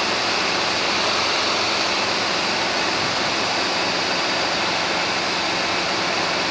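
Steady in-flight cabin noise of a Robinson R22 helicopter: engine, rotor and airflow blend into a loud, even rushing sound with a faint low hum, unchanging throughout.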